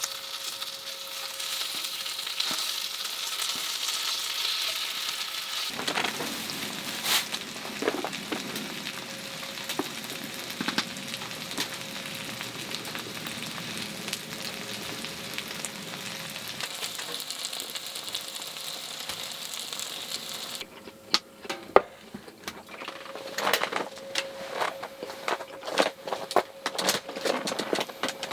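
Food frying in a pan, a steady sizzling hiss. About two-thirds of the way through, the sizzle drops away and a run of light clicks and knocks follows.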